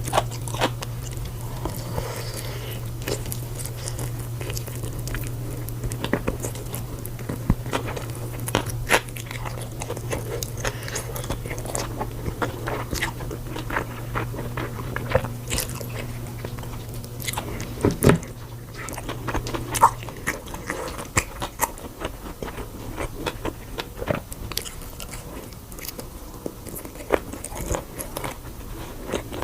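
Close-miked eating of crisp food: a stream of irregular sharp crunching bites and chewing. A low steady hum runs underneath and stops about two-thirds of the way through.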